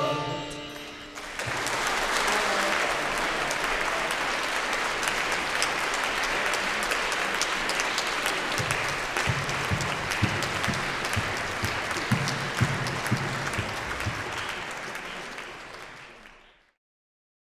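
The final chord of the music dies away in the first second, then a concert-hall audience applauds steadily. The applause fades out near the end.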